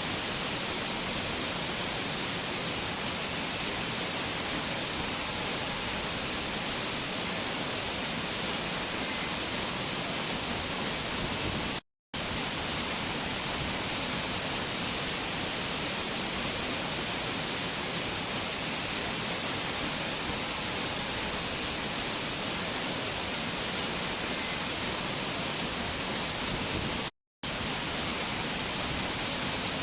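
Waterfall rushing in a steady, unbroken hiss of falling water. It cuts out to silence twice for a split second, once midway and once near the end.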